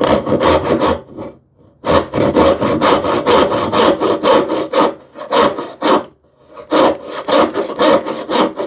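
Hand tenon saw cutting through wood in quick back-and-forth strokes, about three a second, pausing briefly about a second in and again about six seconds in.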